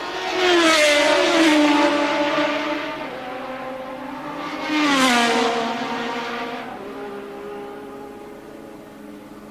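1983 Formula One cars passing at racing speed. One goes by about half a second in and another about five seconds in, each engine note loud and dropping in pitch as it passes, then fading away.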